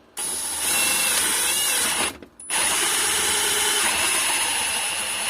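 Handheld electric drill boring into wood, the bit biting hard. It runs, stops briefly about two seconds in, then starts again.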